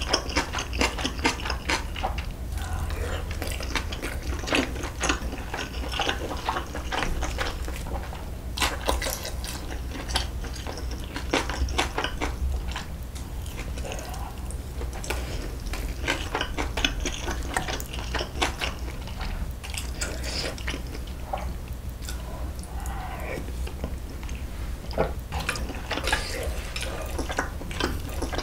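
Close-miked eating sounds: wet chewing and mouth sounds while eating spicy braised beef short ribs (galbi-jjim), with many short clicks of metal chopsticks against the dishes.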